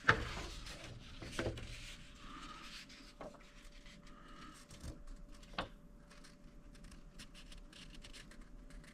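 Faint handling of a paper instruction leaflet as it is turned over: soft rubbing with a few light taps.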